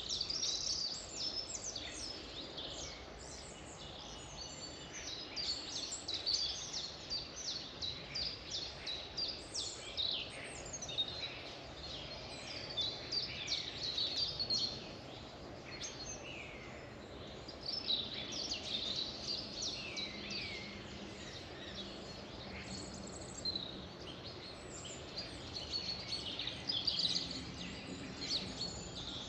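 A chorus of several songbirds chirping and singing over a low steady background hiss, with quick, rapidly repeated high notes and short falling whistles throughout.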